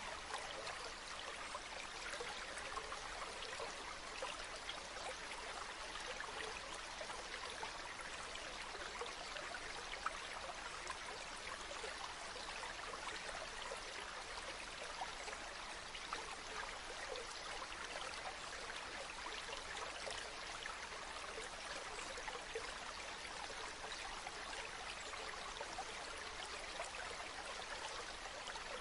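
Shallow river or brook babbling steadily, with a fine ticking of water throughout and one sharper click about ten seconds in.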